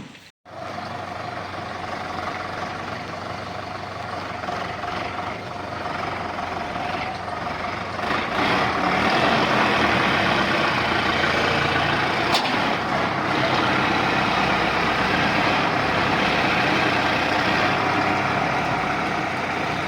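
Tractor engine of a sugarcane grab loader running steadily, getting louder about eight seconds in as it works harder.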